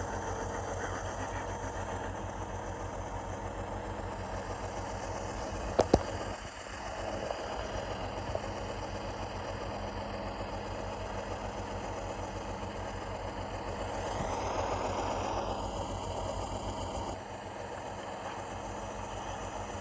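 Sound decoder in a model diesel locomotive playing a GE 7FDL-16 prime mover, running steadily at raised RPMs through the model's small speaker. Two sharp clicks come about six seconds in.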